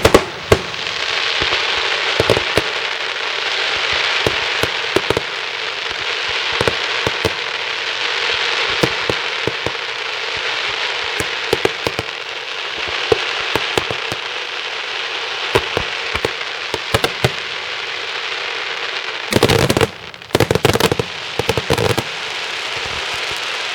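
Italian daytime fireworks: dense, continuous crackling punctuated by many sharp bangs, with a cluster of heavier bangs near the end.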